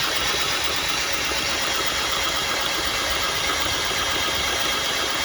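Chevrolet Cruze 1.4-litre four-cylinder engine idling steadily just after being started.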